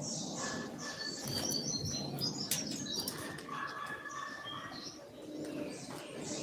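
Double-collared seedeater (coleiro) singing its 'tui tui' song: runs of short, clear whistled notes repeated in quick series, with sharp clicks and rustling between them.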